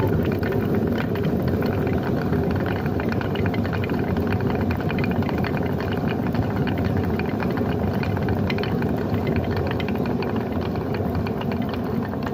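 Traditional water mill running: a steady churning rattle of the turning mill with rushing water.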